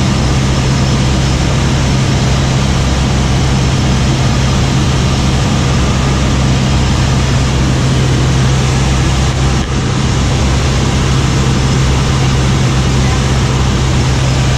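Light aircraft's piston engine and propeller droning steadily, with a strong low hum. There is a brief dip about ten seconds in.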